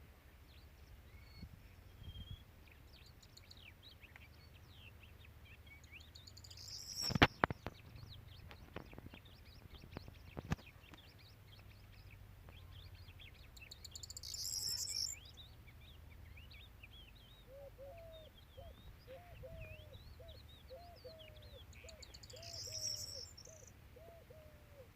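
Birds chirping, many short calls throughout, with another bird's short low calls repeating about twice a second in the second half. There are two sharp clicks at about a third and halfway through, and three brief high hissy bursts.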